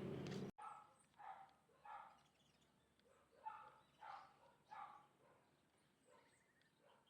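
A loud hissing stretch with a low hum cuts off abruptly half a second in. A faint animal then calls in short notes about every two-thirds of a second, in two runs, fading near the end.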